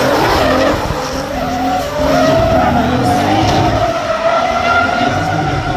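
Drift car engine revving at high rpm, its pitch wavering up and down, with tyres skidding.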